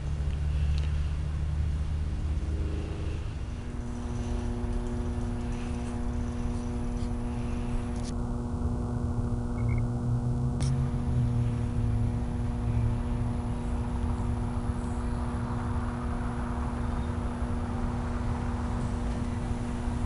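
A machine or engine running: a steady low rumble, joined about three seconds in by a droning hum that holds one pitch.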